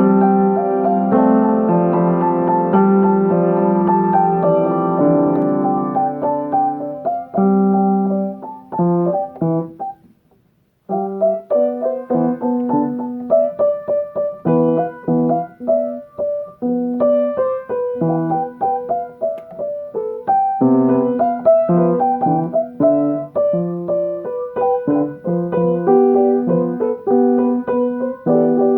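Solo piano being played freestyle: held chords for the first several seconds, thinning to separate notes, then a brief full stop about ten seconds in before it resumes with a quicker mix of single notes and chords.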